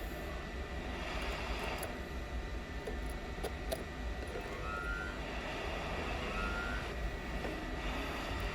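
Steady whir of a small electric fan from a bench tool such as a fume extractor or hot air station, with a thin steady whine and a few light ticks of hand tools on the phone.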